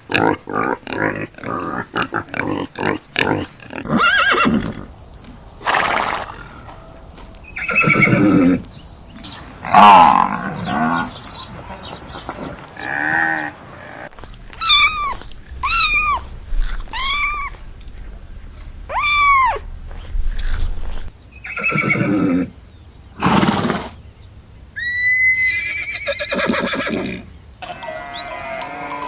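A string of different farm animal calls, one clip after another: a quick run of short grunts at first, then a series of separate calls, including a row of about five repeated arching calls in the middle.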